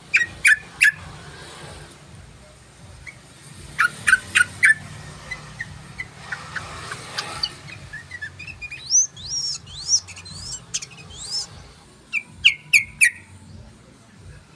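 Yellow-vented bulbul (trucukan) song used as a lure call. Short bursts of sharp, chattering notes come at the start, around four seconds in and near the end, with a run of quick rising-and-falling whistled notes in between.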